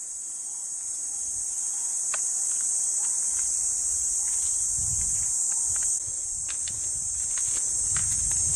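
A steady, high-pitched insect chorus, with scattered faint clicks and low rumbles beneath it.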